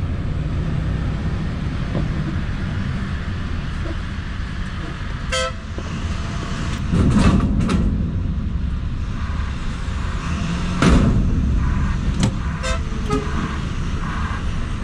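Heavy lorry engine, a Scania V8, idling steadily, with a short pitched beep like a horn toot about five seconds in and louder bursts of noise around seven and eleven seconds from port machinery.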